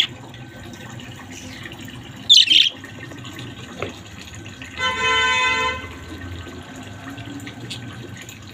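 Budgerigar chirping: short, sharp, high calls right at the start and again about two and a half seconds in. About five seconds in, a steady horn-like tone sounds for nearly a second, over a constant background hiss.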